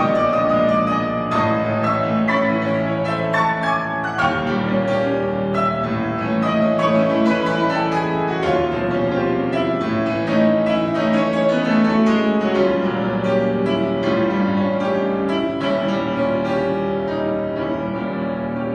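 Piano playing a classical piece: struck notes and sustained chords over a moving bass line, easing slightly in loudness near the end.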